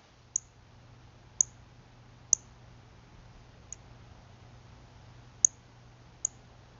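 A bird giving short, sharp, high chip notes, six at uneven intervals about a second apart, one of them fainter, over a faint low steady hum.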